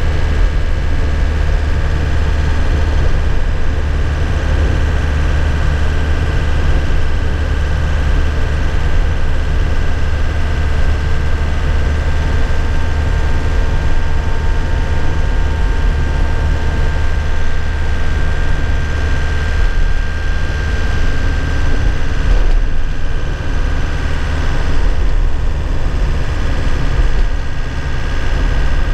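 2001 Nissan Cabstar light truck's engine running steadily while driving, heard from inside the cab, with a strong low hum and road noise.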